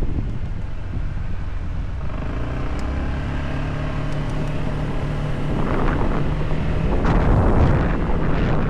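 Motorcycle engine running at a steady pitch with wind rushing over the microphone, the rush growing louder and noisier in the second half.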